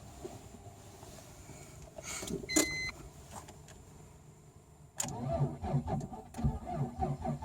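Starter motor cranking a BMW E46's turbocharged M52B28TU straight-six on a flat battery, a pulsing churn that starts suddenly about five seconds in. A short electronic beep sounds a couple of seconds before the cranking.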